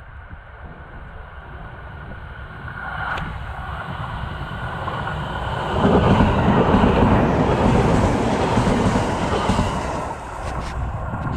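A train passing over a level crossing. Its rumble builds from about three seconds in, is loudest for about four seconds around the middle, and eases off near the end.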